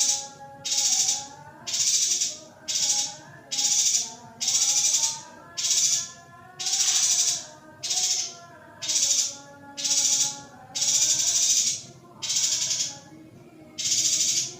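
Female yuhina calling over and over: high, rattling bursts of about half a second, repeating steadily roughly every three quarters of a second. This is a call meant to rouse male yuhinas.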